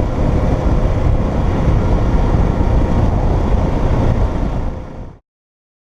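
Wind rush and road noise from a motorcycle moving at road speed, a heavy low rumble with the engine under it. It cuts off abruptly about five seconds in.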